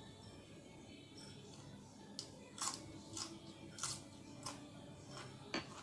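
Crunchy food being bitten and chewed close to the microphone, with a string of about six sharp crunches in the second half.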